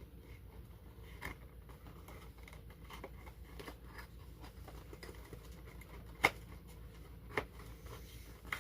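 Plastic packaging being handled: light scraping and rustling with a few sharp plastic clicks, the loudest about six seconds in, as a model locomotive is pushed back into its plastic packaging insert.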